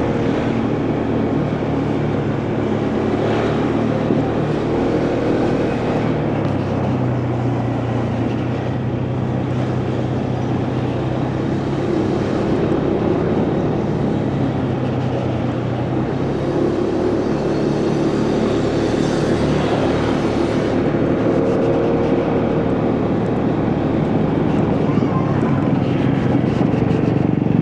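Motorcycle engine running under way, with wind and road noise. Its pitch steps up and down several times as the speed changes.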